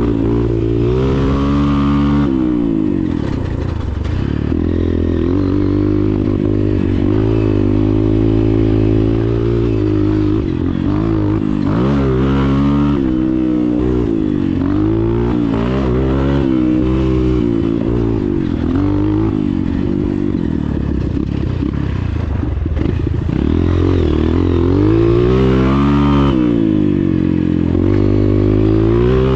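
Motocross dirt bike engine being ridden hard, its pitch climbing under throttle and dropping off again over and over as the rider accelerates and backs off.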